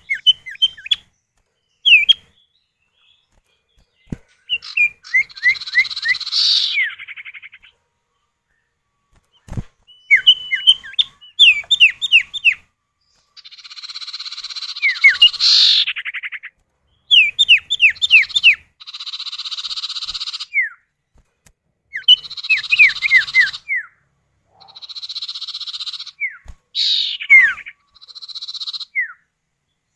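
Common iora (cipow) male and female calling back and forth: quick series of sharp, downward-slurred whistled notes alternating with buzzy churring trills, in bursts of a few seconds with short silent gaps between them.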